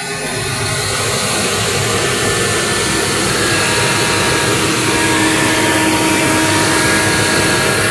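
Asphalt paver working: its engine and machinery run steadily and loudly, a broad noisy rush with a few steady whining tones on top. It swells a little over the first couple of seconds, then holds level.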